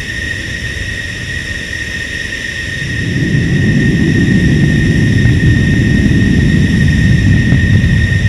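F-16 fighter jet engine with a steady high whine, its low roar swelling about three seconds in and staying loud.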